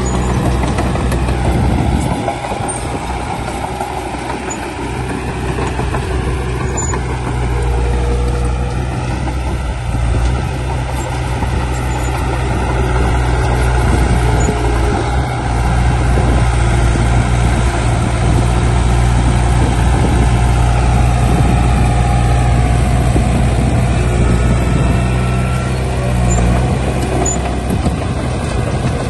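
Heavy diesel earthmoving machinery, bulldozer and dump trucks, running steadily at work with small changes in load. The engine hum dips briefly about two seconds in.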